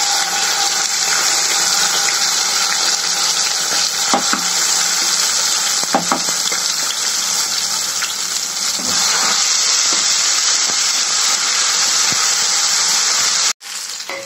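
Ground spice paste of dried chilli, pepper, cumin, ginger and garlic frying in hot oil in a kadai: a loud, steady sizzle, with a few soft knocks as a wooden spatula scrapes the paste off a steel plate. The sizzle cuts off abruptly near the end.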